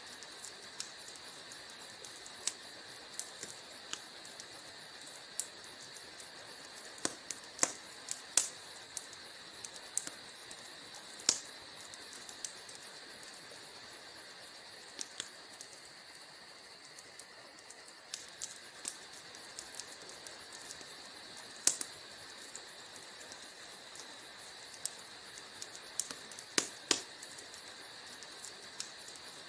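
Wood fire crackling in a fireplace: irregular sharp pops and snaps over a steady hiss, some in quick little clusters, with the loudest pops about eleven and twenty-two seconds in.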